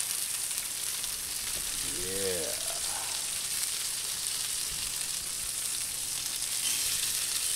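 Flour-dredged chicken breasts frying in grease on a Blackstone steel flat-top griddle: a steady sizzle as the pieces are turned.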